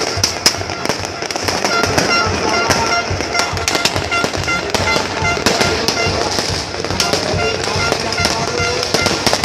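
Fireworks going off without a break: many quick bangs and crackles overlapping, with music playing at the same time.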